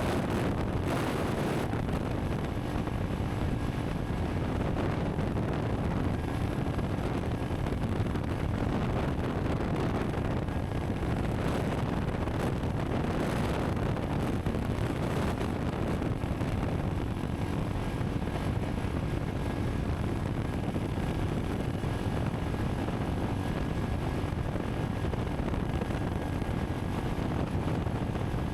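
Honda CRF300 Rally's single-cylinder engine running steadily while riding, with wind buffeting the microphone.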